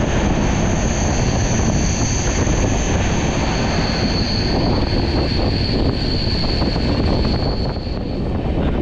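Passenger train running fast through a tunnel and rock cutting, heard from the coach: a loud steady rumble of wheels and rail, with two thin high squealing tones over it. One tone fades out about halfway and the other near the end.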